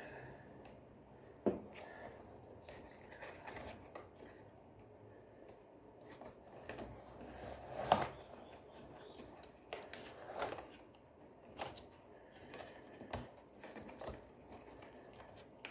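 Scattered light knocks, clicks and rubbing of a vacuum cleaner's parts being handled and fitted back together, with sharper knocks about a second and a half in and about eight seconds in.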